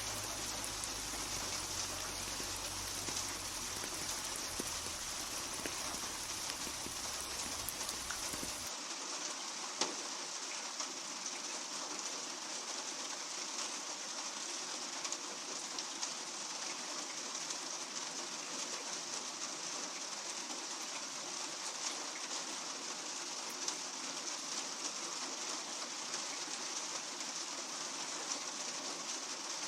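Steady rain falling, an even hiss with scattered drop ticks. About nine seconds in, the low rumble and the highest hiss cut out abruptly, leaving a thinner rain sound.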